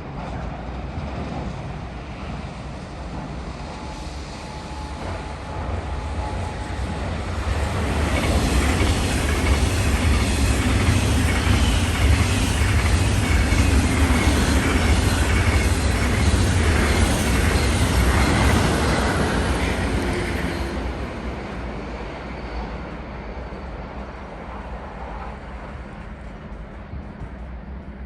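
A train passing through the station on the rails: the rolling noise builds over the first several seconds, stays loud for about twelve seconds with a fast run of wheel clicks, then fades away.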